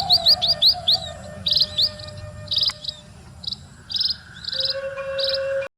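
Birds chirping in quick repeated short calls and rising whistles over a faint held note of saluang bamboo-flute background music; the sound cuts off just before the end.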